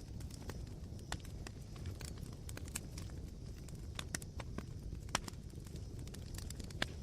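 Campfire embers crackling: irregular sharp pops and ticks over a steady low rumble of burning, with the strongest pops about five seconds in and near the end.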